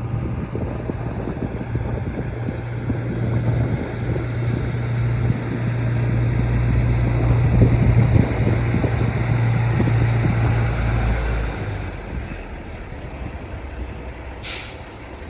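A 1988 Scania 142H truck's V8 diesel running at a steady pitch, growing louder to a peak about eight seconds in, then dropping away suddenly a few seconds later. Near the end there is a brief sharp hiss.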